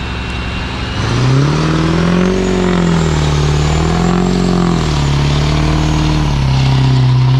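Ford 6.4 Powerstroke V8 diesel with a single-turbo conversion pulling hard uphill. The engine note jumps up about a second in, then rises and falls a few times under load, while a high turbo whistle climbs with it.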